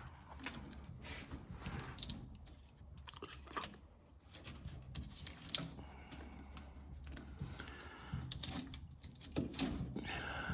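Hand tools clicking and scraping on metal in irregular, sharp clicks, as the fittings of an old car battery are being undone.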